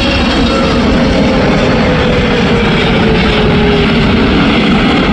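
Jet airliner on final approach passing low overhead: a loud, steady rush of engine noise with a whine that slowly falls in pitch.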